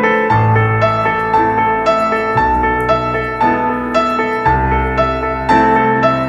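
Gentle background piano music: a steady flow of notes over a bass line that changes every couple of seconds.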